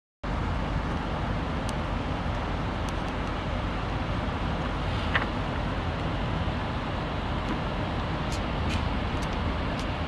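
Electric passenger train running, a steady rumble heard from inside the carriage, with a few short, sharp snaps scattered through: the pantograph arcing against ice on the overhead wire.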